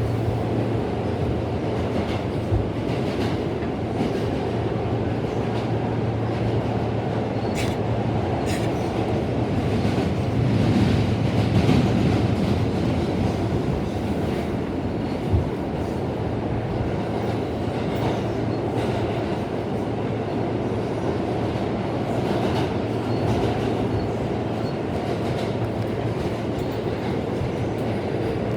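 New York City subway train running between stations, heard from inside the car: a steady rumble of wheels and motors with scattered sharp clicks over rail joints. The rumble swells louder about ten to twelve seconds in.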